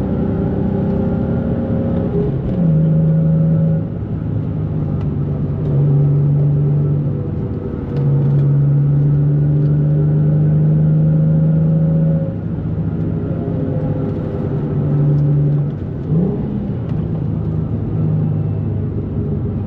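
2004 Nissan 350Z's 3.5-litre V6 engine and exhaust running at fairly steady revs while driving. The drone swells louder and eases back several times as the throttle is applied and lifted, with a short rise in revs about sixteen seconds in.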